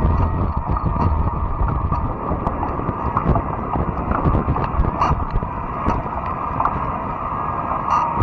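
Riding noise from a fat-tire e-bike on a trail: a steady rumble of tyres and wind on the microphone, with scattered small clicks and ticks.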